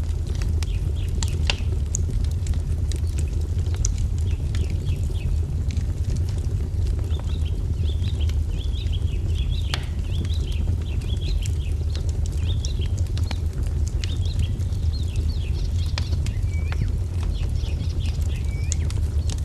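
Wood fire crackling with scattered sharp pops over a steady low rumble, while small birds chirp and twitter throughout. Several short falling whistled notes come in the second half.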